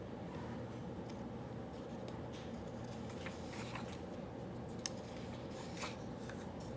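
Writing on paper while solving problems: short, scratchy strokes come and go, with a sharp tick about five seconds in, over a steady low background hum.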